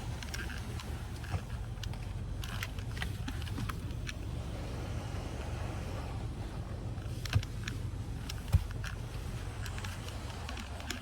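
Automatic car wash heard from inside the car: a steady low rumble with scattered light ticks, and two sharp knocks a little over a second apart near the end.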